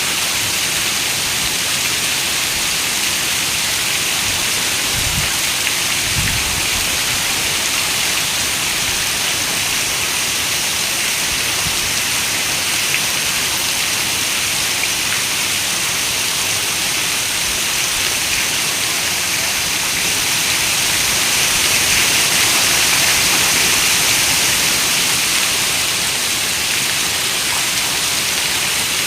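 Heavy rain falling steadily on a window, an even hiss that swells a little about three quarters of the way through. Two brief low rumbles come about five and six seconds in.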